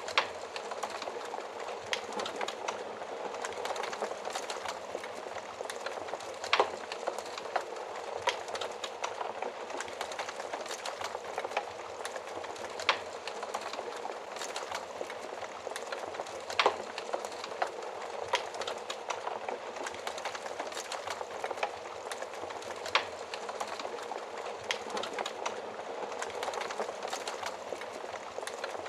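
Wood fire burning in an oven: a steady hiss and rumble of flames with sharp pops and crackles at irregular intervals, the loudest about six and a half and sixteen and a half seconds in.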